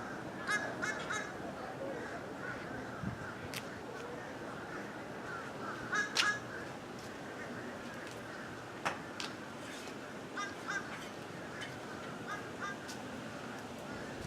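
Crows cawing overhead in short groups of two or three calls, with gaps of a few seconds between, over a steady background hiss.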